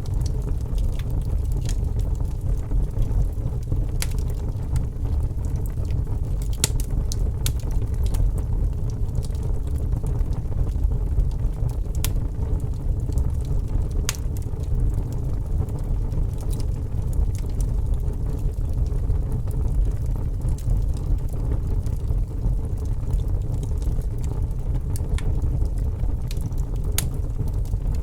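Fire burning with a steady low rumble of flames and irregular sharp crackles and pops, several in quick succession about six to eight seconds in.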